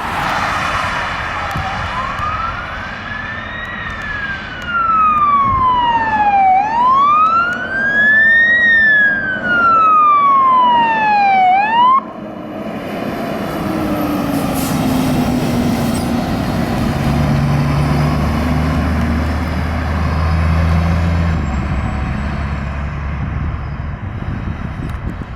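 Fire engine siren wailing in slow rising-and-falling sweeps, with a faster, higher siren tone layered over it twice. About halfway through the wail cuts off, and a lower tone winds slowly down while the truck's engine runs.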